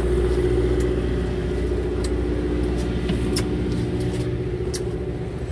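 A fishing boat's engine running steadily, a constant low hum, with a few faint clicks over it.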